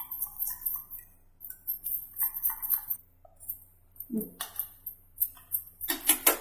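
A steel spoon clinking and scraping against a steel plate and a steel mixing bowl as a flour mixture is pushed into cake batter. The clinks come irregularly, with the loudest bunch near the end.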